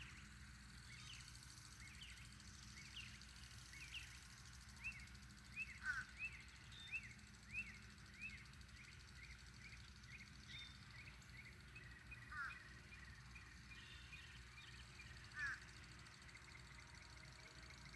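Birds chirping: many short, repeated chirps, faint, a few of them louder, over a faint steady low hum.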